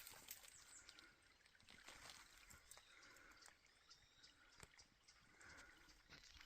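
Near silence, with faint scattered ticks and rustles.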